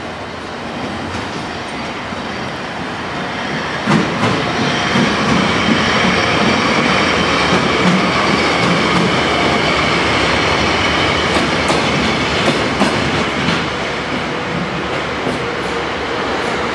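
A train rolling along the rails, with wheels clacking over rail joints and some wheel squeal; it grows louder about four seconds in with a sharp knock and stays loud.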